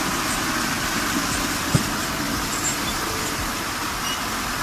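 A tractor's engine running steadily, with one sharp knock a little under two seconds in.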